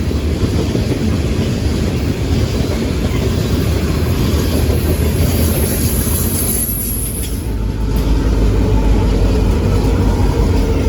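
A train rolling past close by, its cars making a steady loud rumble on the rails. A thin high squeal rides over it for a few seconds in the middle.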